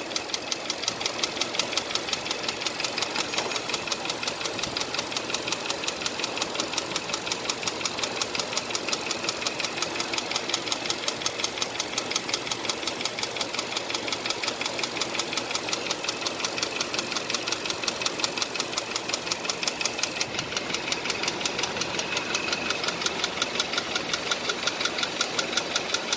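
Hyundai Accent 1.6 engine running with a rapid, even knock from inside the engine, one sharp tap after another at a steady rate.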